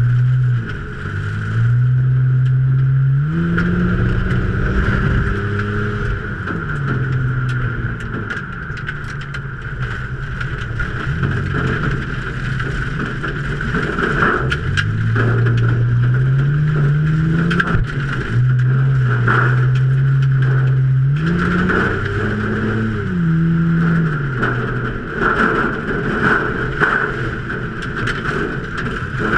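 A 2003 Ford Taurus V6 race engine, heard from inside the cockpit, revving up and backing off again and again as it laps the oval. A steady higher drone and a scatter of small rattles and clicks run underneath.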